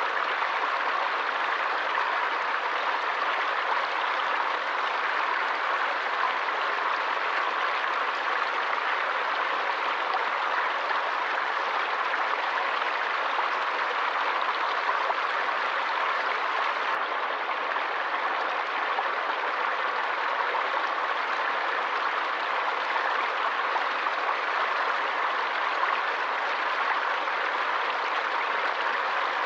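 Forest stream flowing, a steady, even rush of water with no change in level.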